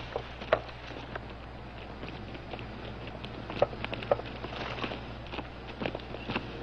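Scattered footsteps crunching on dry ground at an uneven pace, over a steady low hum.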